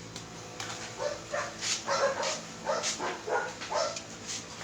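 Dog barking repeatedly in short yaps, about three a second, starting about a second in.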